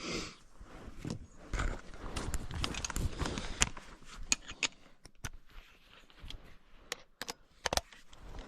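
Irregular clicks, knocks and rustling from tools and parts being handled during a shock-absorber bolt repair, with scraping at first and then a scatter of sharp separate clicks.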